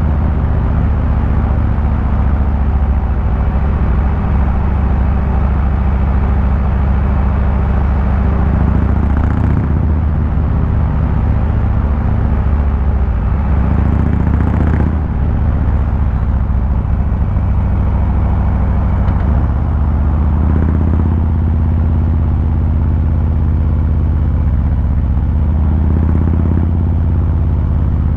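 Harley-Davidson Fat Boy 114's Milwaukee-Eight V-twin engine and exhaust running while riding, a steady low rumble with small shifts in engine speed.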